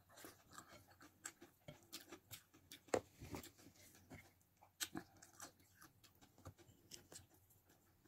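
Faint chewing and mouth sounds of a person eating a handful of rice: scattered soft smacks and clicks, with a louder one about three seconds in and another near five seconds.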